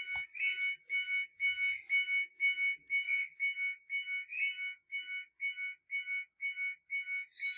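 Pickup truck's warning chime sounding because a switch is left open: a high, steady electronic beep repeating about twice a second.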